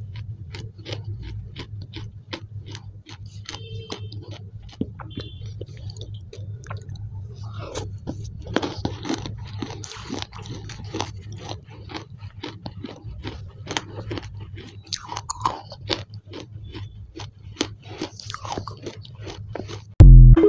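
Close-up chewing of a wet blue clay paste: sticky, wet mouth clicks a few times a second over a steady low hum. A loud short tone cuts in right at the end.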